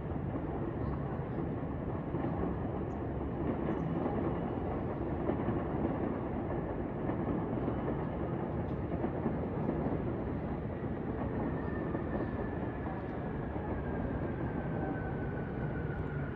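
Electric train running on the tracks, a steady rumble with a thin whine that slowly falls in pitch over the last five seconds, as a train's motors do when it slows.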